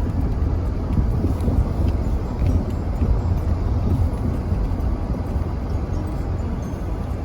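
Blizzard wind buffeting the microphone: a steady, deep rumble that rises and falls slightly in gusts.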